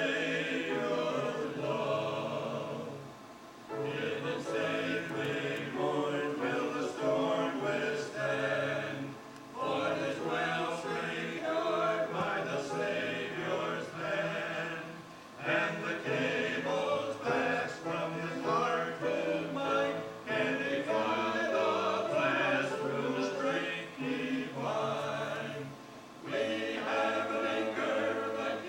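Choir singing a gospel song in phrases, with short breaks between them every few seconds.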